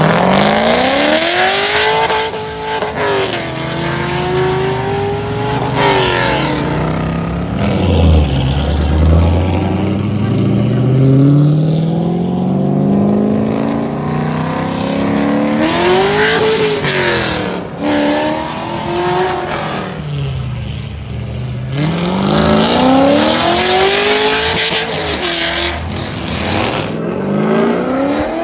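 Heavily modified 2003 Chevrolet Corvette Z06's LS6 V8, cammed and running with cat and muffler deleted, accelerating hard. Its pitch climbs and drops back several times, with one longer, slower pull from low revs in the middle.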